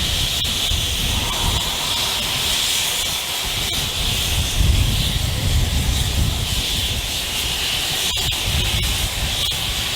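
Steam locomotive letting off steam in a steady, high hiss, with a low rumble beneath it.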